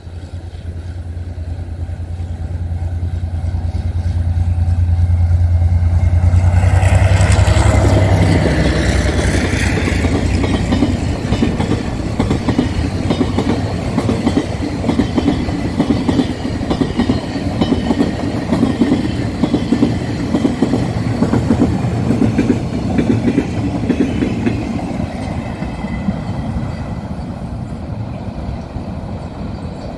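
Diesel-electric locomotive R156 drawing near with a low, steady engine hum that grows louder and passes about eight seconds in. A long string of loaded freight flatcars follows, rolling by with a steady clickety-clack of wheels over the rail joints that slowly fades as the train draws away.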